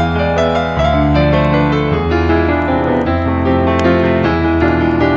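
Slow, gentle piano music with sustained bass notes and chords changing about every second.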